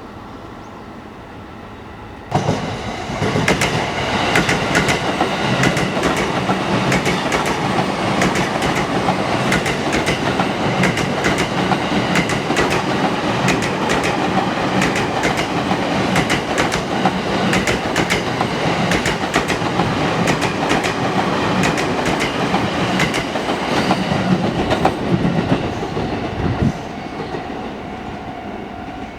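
JR East electric commuter train passing close by, its wheels clattering over the rail joints in a long run of sharp clicks. The noise starts suddenly about two seconds in and falls away sharply near the end.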